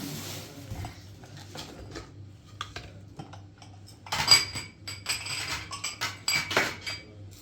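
Hard objects clinking and clattering, with a few sparse clicks at first and then a busier run of clinks in the second half. Some clinks leave brief ringing tones.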